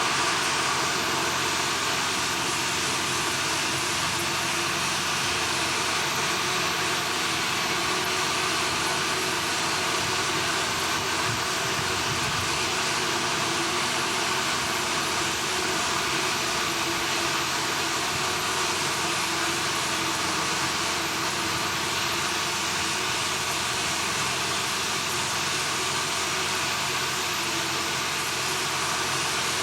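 Steady industrial machinery noise: a continuous hum with several fixed tones under an even hiss, unchanging throughout.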